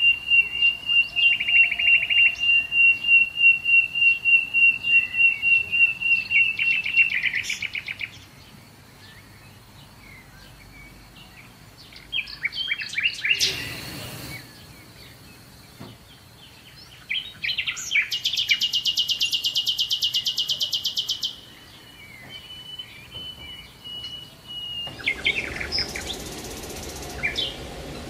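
Birds chirping: a high note repeated rapidly for the first several seconds, then scattered calls and a long fast high trill a little past the middle.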